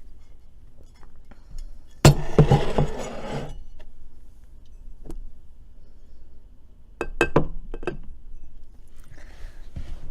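Dishes and utensils clinking and clattering: a loud clatter of something set down or moved about two seconds in, lasting over a second, then a few sharp clinks about seven seconds in.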